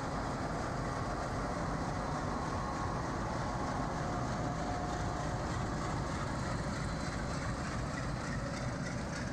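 Diesel-hauled train passing through a station at speed: a steady rumble of wheels on track.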